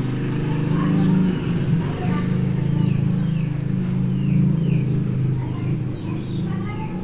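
A steady low engine hum, like a motor idling close by, runs under a string of short, high, downward-sweeping bird chirps repeated every half second or so.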